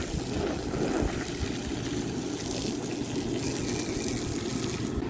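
Coleman rooftop RV air conditioner running, a steady rush of air from its fan.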